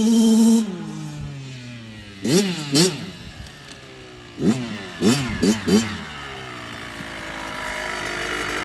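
Kawasaki KX85 two-stroke dirt bike engine revved in short, sharp throttle blips, the pitch jumping up and falling back to a lower running note between them. The engine is held high at first and then winds down, with two blips a few seconds in and four more in quick succession past the middle.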